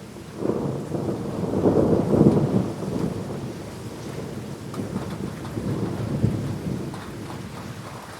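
Rolling thunder over steady rain: a deep rumble starts about half a second in, is loudest about two seconds in, and dies away over the next few seconds while the rain goes on underneath.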